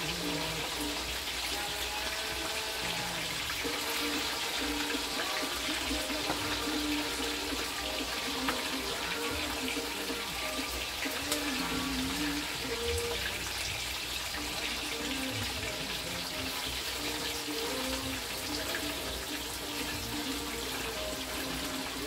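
Steady hiss of chicken back frying in oil in a skillet, together with a covered pot of water at a boil, with a few light clicks of a fork against the pan.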